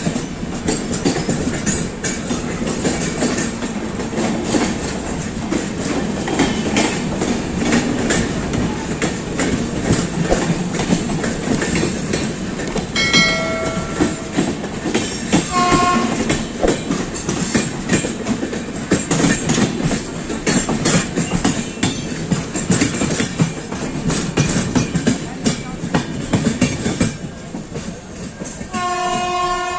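A moving passenger train, its wheels clattering rhythmically over the rail joints under a steady running rumble. A train horn sounds in short blasts about halfway through and again near the end.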